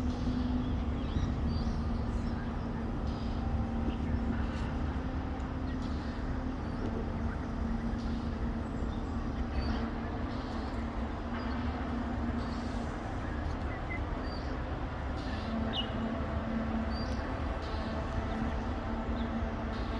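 Steady low rumble and hum of urban background noise, with faint, short bird chirps scattered through it.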